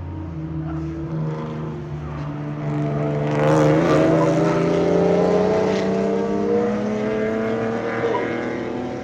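Race car engines running on a circuit, accelerating with a rising pitch. The sound grows loud about three seconds in and then slowly fades.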